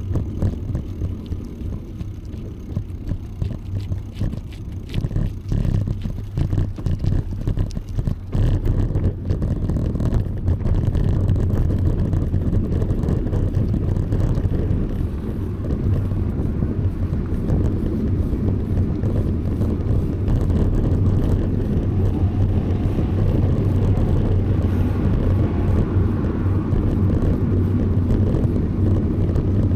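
Wind buffeting the microphone of a moving bicycle, heard as a steady low rumble with road noise under it. It is rougher and more uneven in the first ten seconds or so, then evens out.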